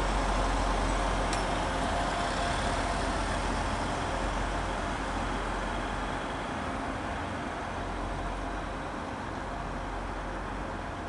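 Class 175 diesel multiple unit running past close by: a steady rumble of engines and wheels on rail with a faint steady whine, slowly fading as the train draws away.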